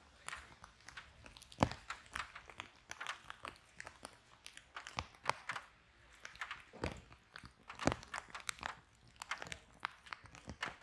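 Wood fire in a fireplace crackling, with irregular snaps and a few louder pops over a soft hiss.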